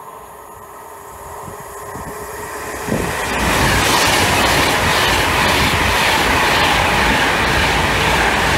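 Avanti West Coast Class 390 Pendolino electric train passing at speed. A rising rush as it approaches jumps suddenly about three seconds in as the front draws level, then a loud, steady rush of wheels on rail and air as the carriages stream past.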